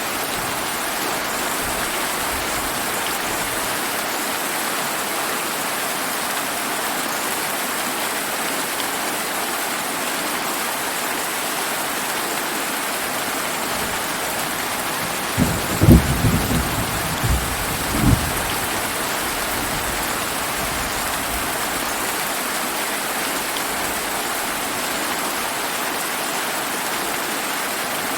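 Steady summer rain falling evenly, with a short rumble of thunder about halfway through: several deep peaks over roughly two and a half seconds.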